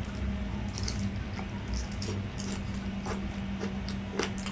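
Close-miked chewing and wet mouth clicks of someone eating grilled isaw, many small, irregular smacks over a steady low hum.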